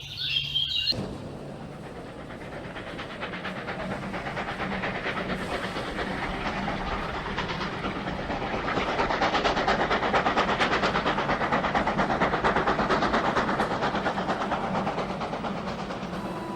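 A train passing with wheels clattering rapidly over rail joints, building up over several seconds, loudest in the middle and easing slightly near the end.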